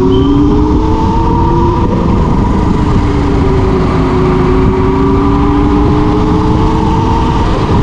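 Wind buffeting the microphone during a ride on a Yatri electric motorcycle, a steady low rumble, with a hum under it that drifts slowly up and down in pitch.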